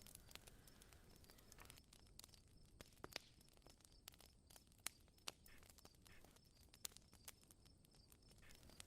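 Wood campfire crackling faintly, with irregular sharp pops and snaps over a low hiss.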